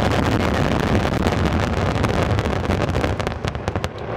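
A dense fireworks barrage: a continuous low rumble of shell bursts overlaid with many sharp crackling pops, which grow thicker near the end as the rumble eases.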